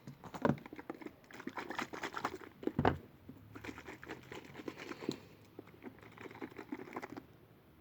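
ASMR trigger sounds close to the microphone: rapid, irregular light tapping and crinkling, with two louder knocks, about half a second in and near three seconds in, before it thins out toward the end.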